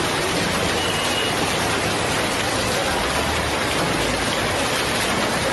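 Heavy rain mixed with hail pouring down, a dense steady patter that doesn't let up.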